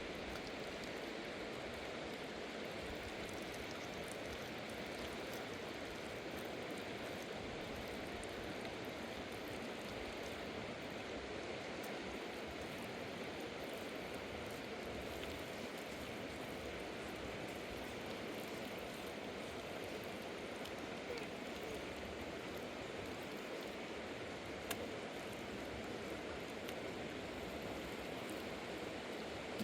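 Steady rushing of a river, an even wash of water noise, with two faint clicks in the second half.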